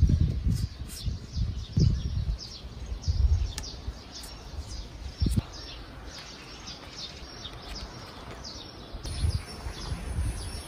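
Small birds chirping over and over, short quick calls. Low dull rumbles and thumps come and go beneath them, loudest at the start and around two and three seconds in, with a single sharp knock about five seconds in.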